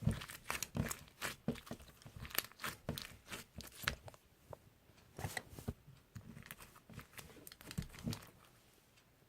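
Irregular crinkling and tearing: a run of short, sharp crackles at an uneven pace that thins out and stops near the end.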